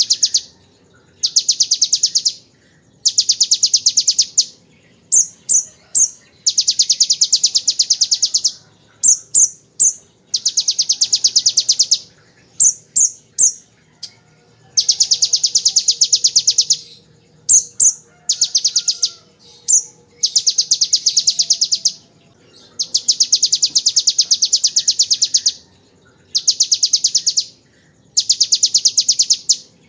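Konin (kolibri ninja sunbird) singing ciblek-style 'tembakan ngebren' phrases: fast, machine-gun-like runs of high-pitched notes about 1 to 2 seconds long, repeated with short pauses, and short chirps in between.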